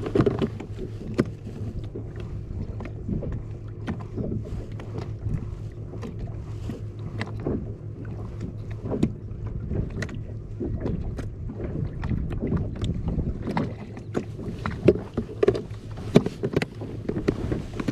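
Irregular small knocks and clicks on a plastic fishing kayak as gear is handled on board, over a steady low rumble of wind and choppy water.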